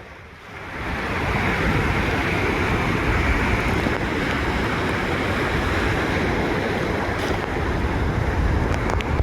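Ocean surf on a beach: a steady rush of breaking waves that builds up over the first second and cuts off suddenly at the end.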